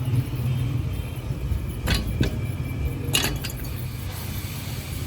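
A steady low mechanical hum, with a few sharp clicks about two seconds in and again just after three seconds.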